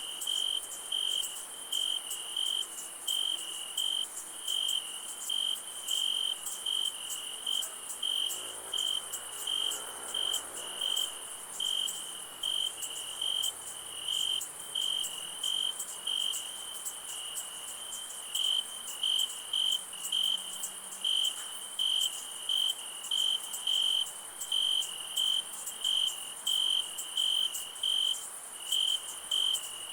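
Night insects: a cricket chirping in an even rhythm, a little over one chirp a second, over a steady high trill from other insects.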